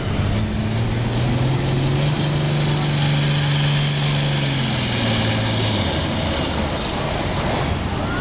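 Turbocharged diesel pulling tractor running hard under load, with a high turbo whistle that rises over the first few seconds, holds, then falls away as the engine note drops about six seconds in.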